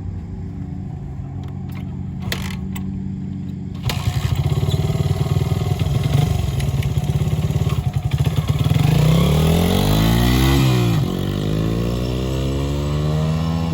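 Honda XR100R's single-cylinder four-stroke dirt bike engine running steadily, then about four seconds in it comes on the throttle and gets louder, its pitch climbing and dropping a couple of times as the bike rides.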